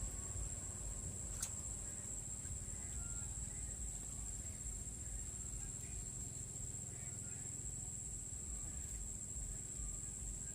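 Insects trilling steadily at a high pitch, unbroken throughout, over a low rumble, with one sharp click about a second and a half in.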